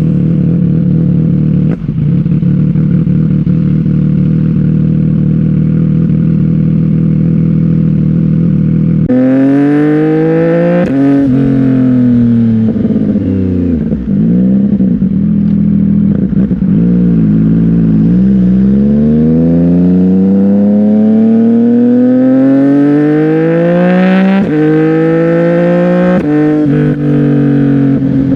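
CFMOTO 675NK inline-three through an aftermarket Burnout titanium exhaust, idling steadily for about nine seconds. It then revs and pulls away, its pitch rising and dropping through throttle changes, and climbs in a long run of acceleration broken by two upshifts near the end.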